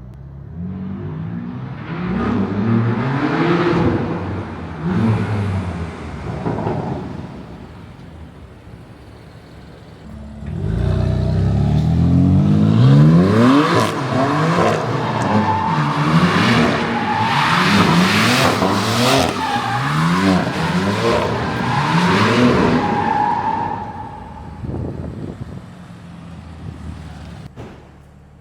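BMW M3/M4 (F80/F82) twin-turbo straight-six running through a single-midpipe exhaust, revving up and falling back again and again. It is loudest from about ten seconds in to near the end, with many quick rising runs in pitch, and quieter before and after.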